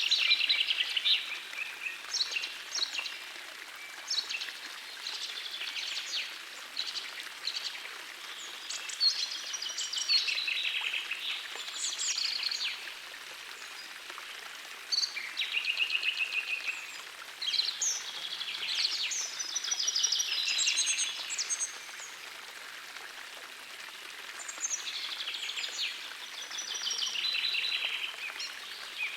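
Songbirds singing in repeated high, chirping phrases of a couple of seconds each, with short pauses between, over the steady rush of a gentle forest stream.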